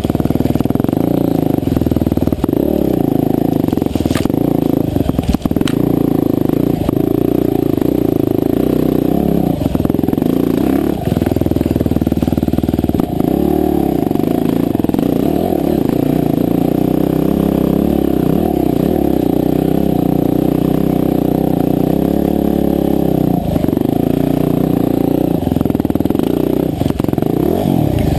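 Husqvarna TE511 single-cylinder four-stroke enduro dirt bike engine running under load on a trail ride, its pitch rising and falling as the throttle opens and closes, with a few brief knocks about four to five seconds in.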